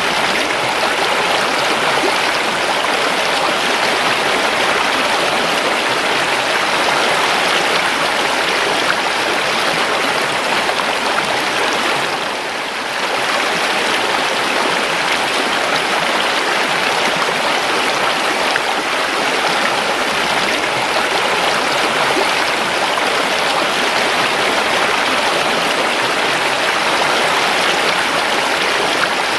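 River water flowing steadily over rocks in a continuous rushing babble, dipping briefly about twelve seconds in.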